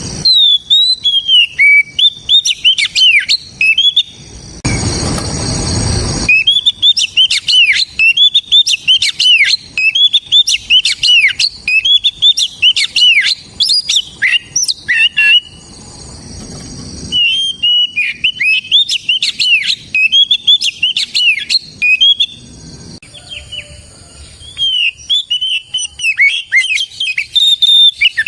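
Oriental magpie-robin (kacer) singing loudly in long, fast runs of sharp whistled notes that slide up and down, broken by short pauses. A burst of hiss cuts across the song for about a second and a half, about five seconds in.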